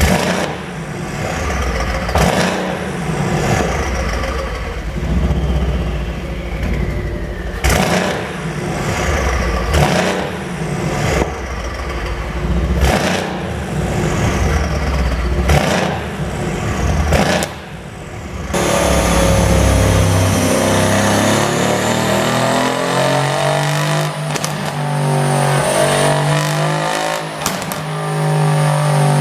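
2017 Mercedes-AMG C63 S twin-turbo V8 revved again and again, each rev falling away with sharp pops and crackles from the exhaust on the overrun, the result of a pop-and-crackle engine tune. After about 18 seconds it settles into a steadier engine drone that rises and falls slowly in pitch.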